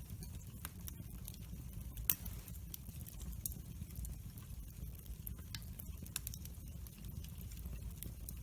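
Wood fire burning in a fireplace: a steady low rumble of flames with irregular sharp crackles and pops from the burning logs, one louder pop about two seconds in.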